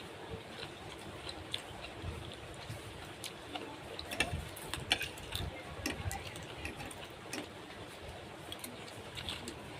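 Irregular light clicks and knocks, a few sharper ones about four to five seconds in, over a low background rumble.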